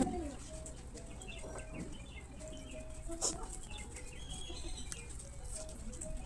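Close-up eating sounds of rice and chicken curry: a run of short wet clicks and smacks from chewing and lips, with a louder smack at the start and another about three seconds in.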